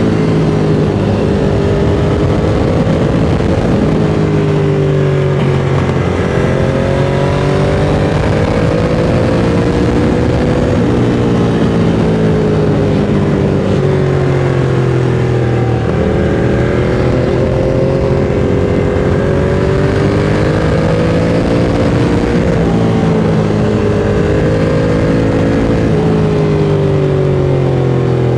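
Ducati Monster 695's air-cooled L-twin engine running through a Mivv X-Cone aftermarket exhaust under way, its pitch rising and falling several times as the rider opens and eases the throttle.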